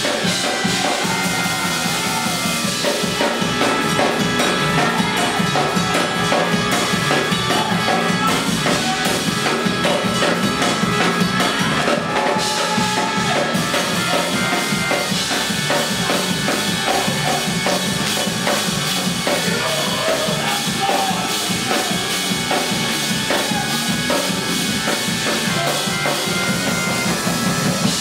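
Live church band music with a drum kit keeping a steady beat under sustained instrument chords.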